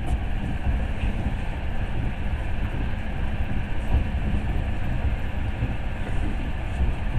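Moving passenger train: a steady rumble of the wheels on the track, heard from inside the carriage.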